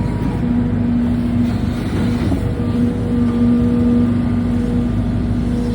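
Hidromek 220 hydraulic excavator's diesel engine running steadily under work, a constant rumble with a steady whine over it.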